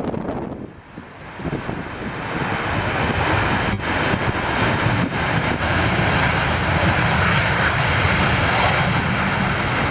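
Jet airliner's engines running as it comes in to land: the noise swells over the first few seconds and then holds loud and steady. Wind buffets the microphone at the start.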